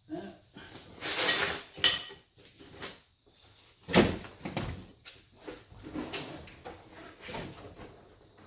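Irregular knocks and clatter, like things being handled and a lid or door being shut, with the loudest knock about four seconds in.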